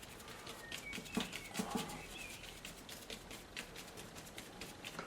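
Paintbrush scrubbing and dabbing acrylic paint onto a rough painting surface: a run of short, scratchy strokes. A few faint, high chirps come in between about one and two and a half seconds in.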